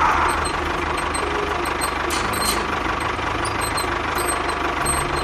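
An engine running steadily with a low, pulsing rumble.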